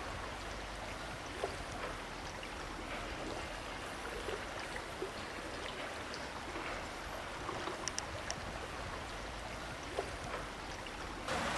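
A small stream running, a steady rush of water with a few faint clicks and taps.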